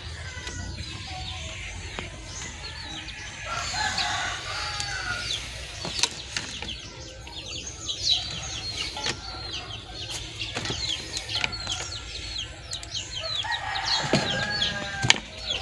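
Birds chirping: many short, falling chirps in quick succession, with a louder drawn-out call near the end.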